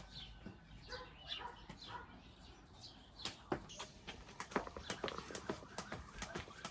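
Birds chirping with short call notes, then, from about three seconds in, a run of sharp, irregular taps, a few a second.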